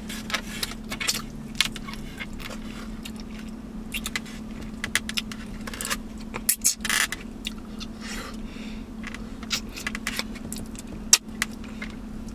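Close-up eating sounds: chewing and lip smacking while biting meat off oxtail bones, an irregular run of sharp wet smacks and clicks over a steady low hum.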